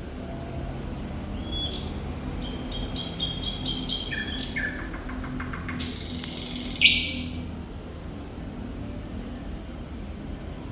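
Thrush nightingale singing one varied phrase: high whistled notes, a quick run of repeated short notes and a fast rattle, then a loud harsh note and a held high note, about seven seconds in, after which the song stops. A faint low hum runs underneath.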